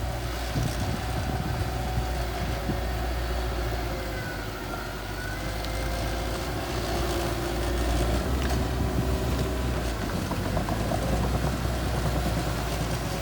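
Diesel engine of a small bulldozer running steadily. It eases off about four seconds in and works harder again from about eight seconds.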